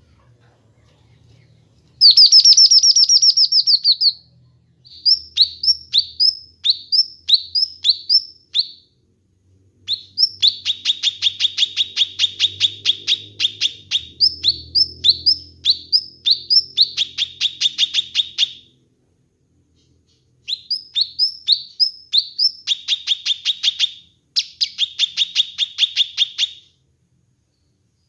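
Kinoi songbird singing loud, high-pitched phrases separated by short pauses: strings of sharp down-slurred notes, about two a second, alternate with fast rapid-fire trills.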